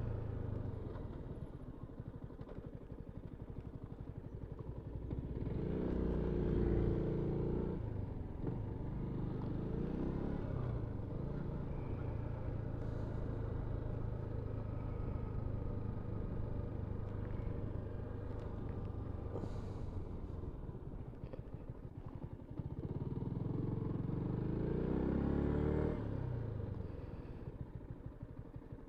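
Yamaha MT-125's single-cylinder engine running as the motorcycle is ridden, twice pulling harder and rising in pitch under acceleration, about five seconds in and again near the end.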